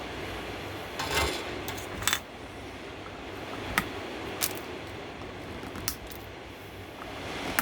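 Small hard clicks and clinks of tools and electronic components being handled on a workbench while crossover parts are fitted. There are about six of them, the first two longer and rattling, over a steady rushing background noise.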